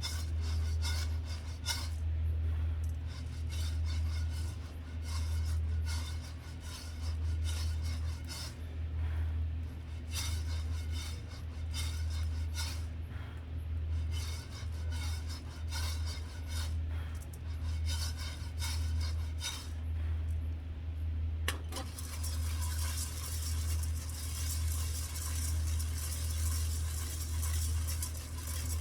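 Dishes and utensils clinking and scraping over a low hum that pulses about once a second; a steady high hiss joins in about two-thirds of the way through.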